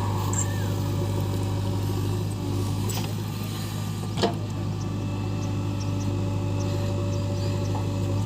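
JCB 3DX backhoe loader's diesel engine running steadily, with one sharp knock about four seconds in.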